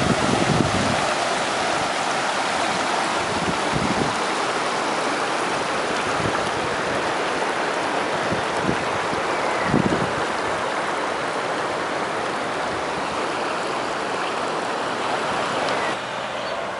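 Little Annan River flowing steadily, with a few brief low thumps of wind on the microphone.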